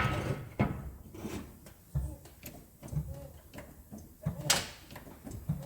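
Porta power hydraulic ram being hand-pumped to push a dented car's rear quarter panel out: a sharp knock at the start, then a series of irregular clunks about once a second.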